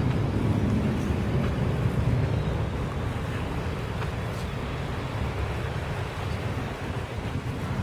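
Wind buffeting the microphone: a gusty low rumble that eases off slightly toward the end.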